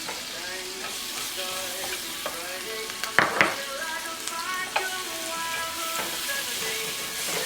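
Chopped garlic sizzling in hot oil and butter in a wok, with a steady hiss and a few sharp clicks of stirring near the middle.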